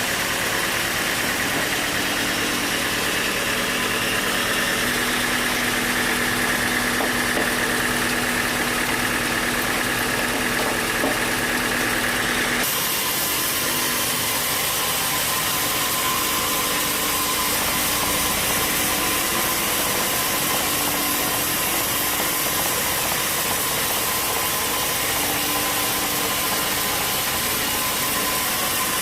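Sawmill machinery engine running steadily, with a continuous hum. About halfway through, the tone changes abruptly.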